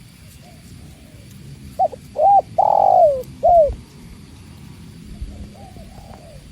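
Spotted dove (tekukur) cooing: one loud phrase about two seconds in, with a short note, two arched coos, a long drawn-out coo and a final coo. Fainter coos follow near the end.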